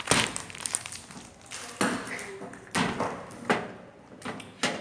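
A handful of short, sharp taps and knocks, about five, spaced unevenly: small objects being handled and set down on a hard surface.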